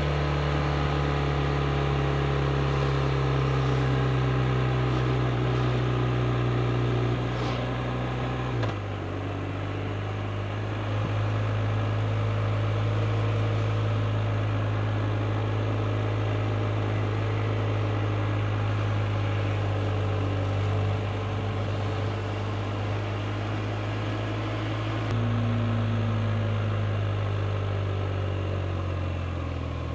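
BMW R 1250 RT's boxer twin engine running steadily under way. Its pitch drops suddenly about nine seconds in and rises again about twenty-five seconds in.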